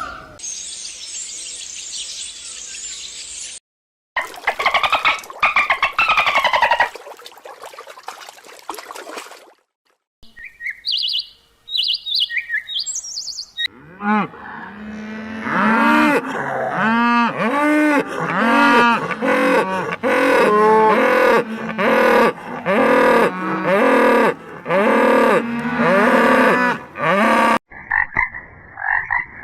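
A run of different animal calls, one clip after another: a hiss for about three and a half seconds, a burst of rapid chirping, a few short high chirps, then a long series of repeated arching calls over a steady low hum.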